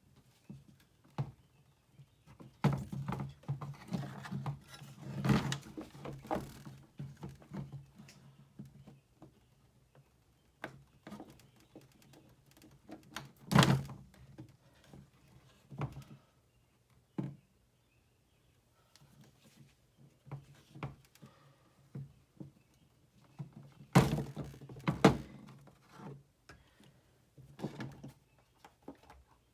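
Irregular knocks, thunks and clatter of hard objects being handled, busiest a few seconds in, with louder thumps about halfway through and twice more near 24 seconds in, over a faint low hum.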